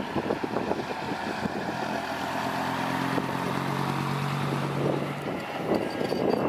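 Heavy diesel machine engine running, with a steady engine note that holds for a few seconds in the middle.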